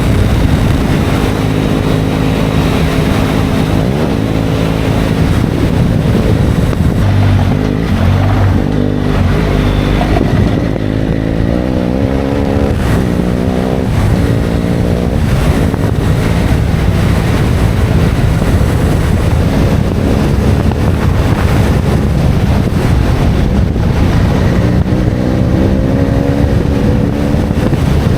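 A motor engine running hard, its pitch holding and then rising several times as it picks up speed, with wind noise over it.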